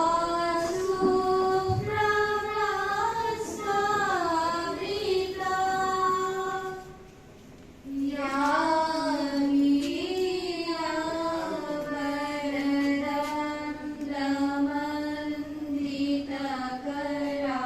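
Female voice singing a slow melody with long held notes, unaccompanied; the singing pauses for about a second midway, then goes on.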